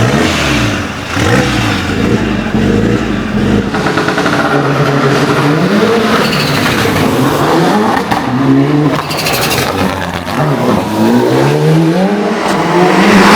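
Mitsubishi Lancer Evo VI hill climb prototype's engine accelerating hard under full throttle, its pitch climbing and dropping back several times as it shifts up through the gears. A loud rush of noise comes near the end.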